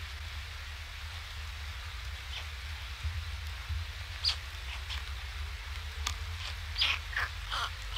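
Steady rain hiss over a low hum, with several short, high, falling chirps from birds starting about halfway through.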